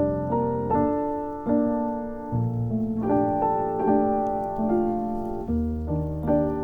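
Background piano music: slow, gentle notes and chords, each struck note ringing and fading before the next.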